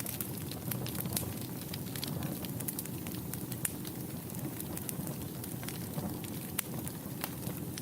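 Wood fire burning in a fireplace: a steady low rumble of the flames with frequent small, sharp, irregular crackles and pops of burning logs.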